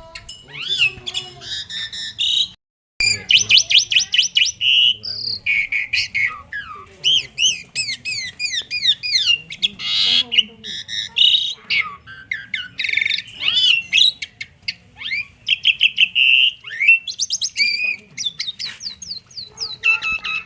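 Asian pied starling (jalak suren) in full song: a long, varied run of rapid trills, rising and falling whistles and harsh chattering notes. The song drops out briefly about three seconds in.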